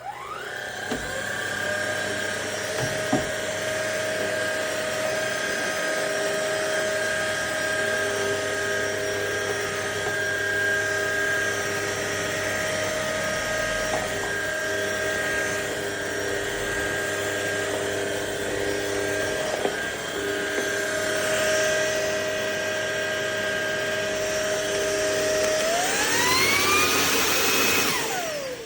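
Ultenic U20 cordless stick vacuum switching on and running with a steady high motor whine. Near the end the motor speeds up and the pitch rises, then it is switched off and the whine falls away quickly.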